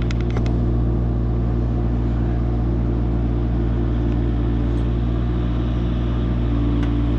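Diesel engine of the heavy machine working the grapple, running at a steady low drone while it lifts slowly. A few quick clicks sound in the first half second.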